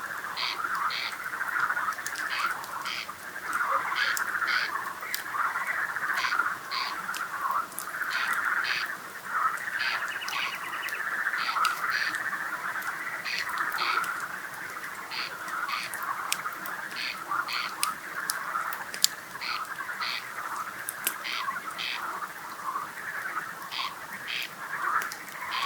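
Frogs calling in a dense, continuous night chorus, with short, sharp double notes repeating over it.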